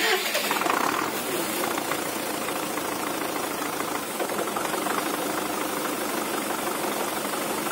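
MTZ-80 tractor's turbocharged four-cylinder diesel engine running steadily.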